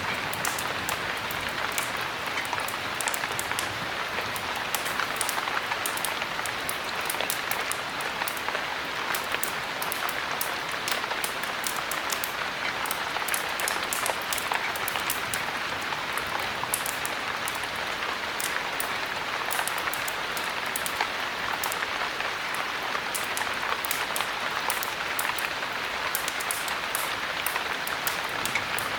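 Steady heavy rain, with many small sharp ticks scattered throughout.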